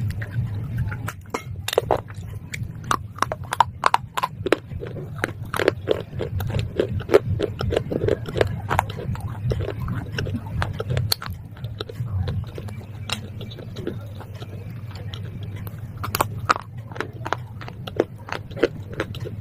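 Close-up crunching and chewing of hard, brittle pieces of slate pencil and baked clay: a run of sharp cracks and crackles, thinning out in the middle and picking up again near the end, over a low steady hum.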